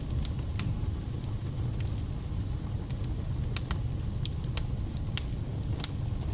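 Wood fire burning: a steady low rumble of the flames with frequent sharp, irregular crackles and pops from the burning logs.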